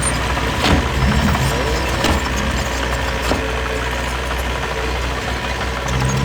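Heavy diesel engine of earthmoving equipment, a dump truck or bulldozer, running steadily at low revs, with a few sharp clanks in the first half.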